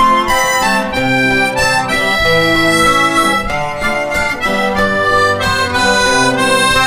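Instrumental break of acoustic guitars playing under a melody of held, sustained notes, with no singing.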